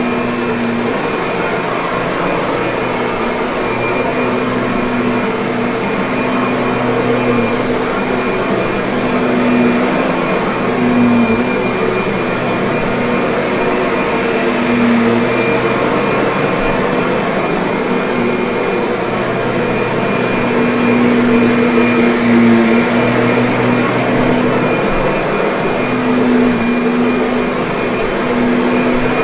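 Kirby vacuum cleaner running steadily: a continuous rush of air over a motor hum that wavers slightly in pitch, with a thin high whine.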